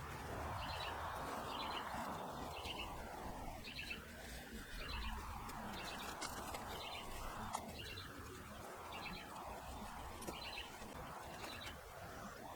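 Songbirds chirping: short clusters of high chirps repeat about once a second, over a steady low hiss.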